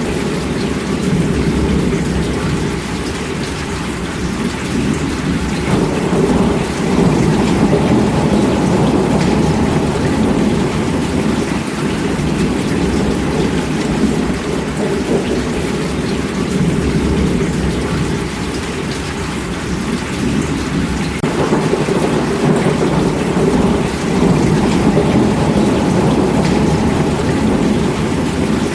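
Heavy rain falling steadily, a dense hiss with a deep low rumble beneath it and no separate thunderclaps. The texture thickens slightly about six seconds in and again past twenty seconds.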